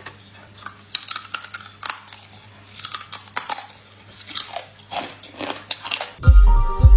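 Close-up chewing and biting of small raw crabs, their shells cracking in irregular crunches. Near the end, loud music with a heavy bass beat comes in.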